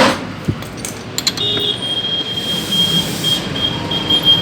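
A few sharp clicks, then a single high-pitched electronic beep that starts about a second and a half in, holds steady, and breaks into rapid pulses near the end.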